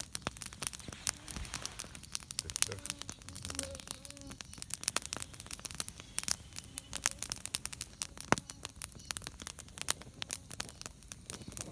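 Wood campfire crackling, with a constant run of irregular sharp pops and snaps. A faint voice murmurs briefly a few seconds in.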